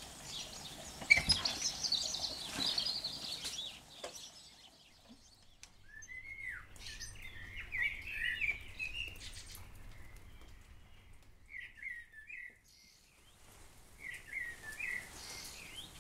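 Songbirds singing: high quick chirping for the first few seconds, then short warbling phrases that come back several times.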